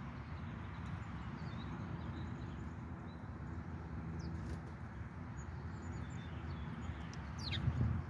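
Scattered short bird chirps, with a quick falling call near the end, over a steady low background rumble that swells slightly near the end.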